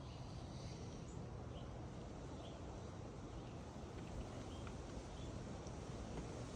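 Wind buffeting the microphone as a steady low rumble, with a small bird chirping briefly every second or so.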